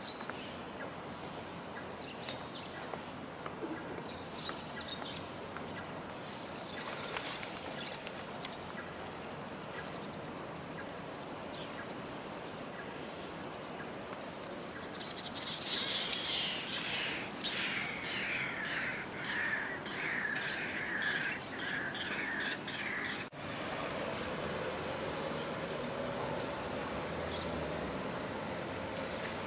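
Smooth-coated otters squeaking: a rapid run of high, squeaky chirps, each falling in pitch, lasting about seven seconds midway, over a steady outdoor background, then stopping abruptly.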